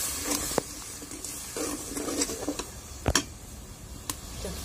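Steel ladle stirring a spice masala frying and sizzling in oil in a wok-shaped pan, with a few sharp clinks of the ladle against the pan, the loudest about three seconds in.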